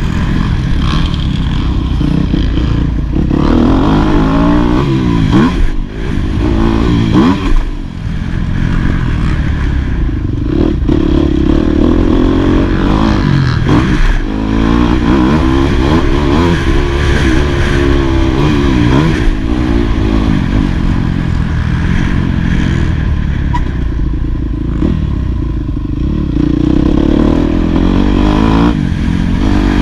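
Yamaha YZ250F four-stroke single-cylinder motocross engine revving hard, its pitch climbing and dropping again and again as the throttle opens and closes, with a couple of sharp knocks around six and eight seconds in.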